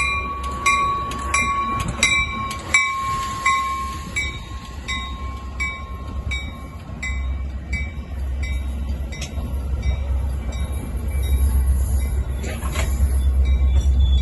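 Metra commuter train arriving, its locomotive's deep rumble growing steadily louder, under a grade-crossing warning bell dinging about one and a half times a second that fades as the train draws in.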